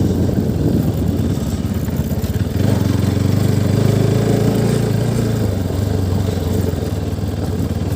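A small engine running steadily at an even speed, growing stronger about two and a half seconds in.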